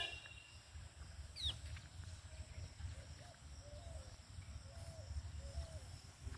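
A bird calling a run of about five short, low notes that rise and fall, over a low steady rumble on the microphone. A brief high falling chirp comes about a second and a half in.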